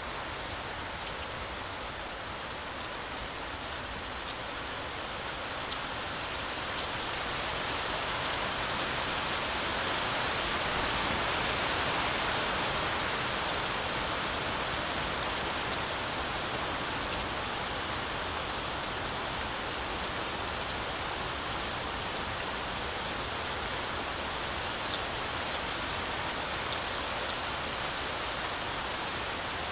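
Heavy, continuous rain falling through a forest canopy, an even hiss with scattered drop patter, swelling a little louder partway through and easing back.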